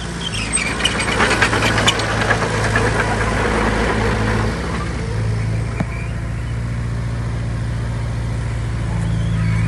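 Diesel engine of heavy earthmoving machinery running steadily, with a spell of metallic clanking and rattling over the first three seconds.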